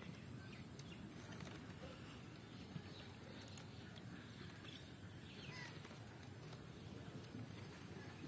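Faint outdoor ambience: a low steady rumble with a few faint, brief bird chirps, one clearest about five and a half seconds in.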